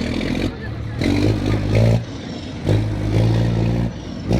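Scania truck's diesel engine running, with two surges of about a second each where it grows louder, as if under throttle.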